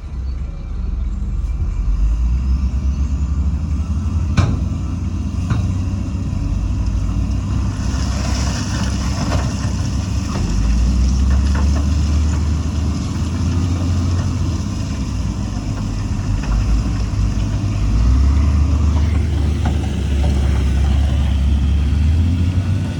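Heavy diesel earthmoving machinery running, its low engine note swelling and easing several times as the load changes. A sharp knock comes about four seconds in, and a hiss rises over the engine about eight seconds in and fades over the next few seconds.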